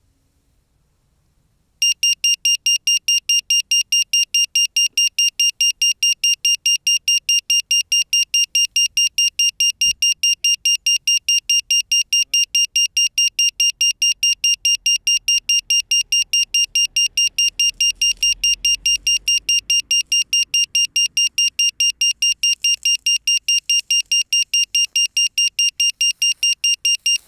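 Crashed FPV racing drone's lost-model buzzer beeping: a loud, high beep repeating about four times a second, starting about two seconds in. It signals the downed quad so it can be found.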